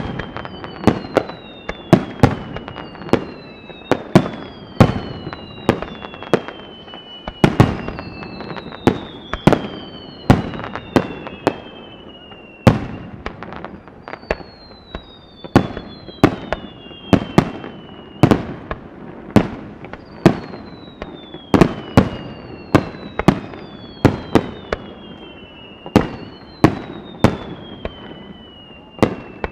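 Fireworks going off in quick succession, a sharp bang about every second, with many whistling shells whose whistles glide downward in pitch over a second or two, several overlapping at once.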